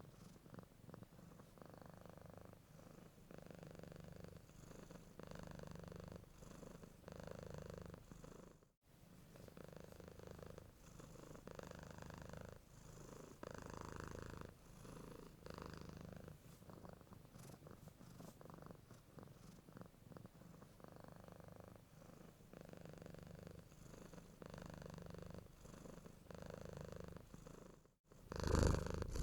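Domestic cat purring, a low rumble that swells and eases with each breath in and out. The purr cuts out briefly twice, about nine seconds in and again near the end.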